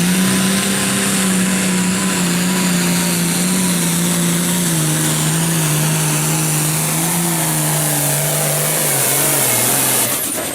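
Turbocharged diesel pulling tractor at full throttle, dragging a weight sled; its engine note sinks slowly as the sled's load builds and bogs it down, and the sound drops off suddenly about ten seconds in as the pass ends.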